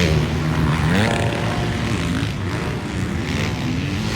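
Dirt bike engines racing on a supercross track, revving up as the riders accelerate, with the pitch rising right at the start and again about a second in.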